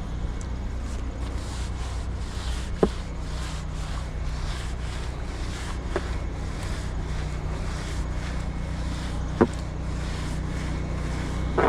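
Pressure washer running steadily: a low engine hum under the hiss of the water spray. Four short, sharp sounds stand out, about three seconds apart.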